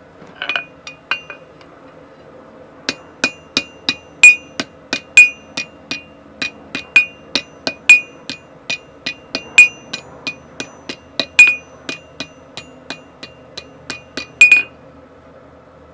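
Blacksmith's hammer striking hot tool steel on an anvil, each blow with a short metallic ring. A few blows come first, then a steady run of about two to three blows a second that stops shortly before the end.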